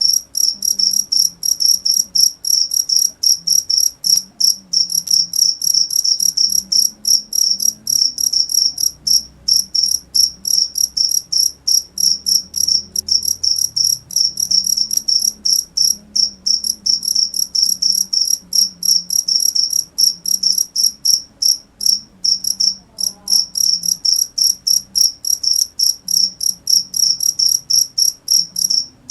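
Cricket chirping: short, high-pitched chirps repeated evenly several times a second, with a few brief gaps.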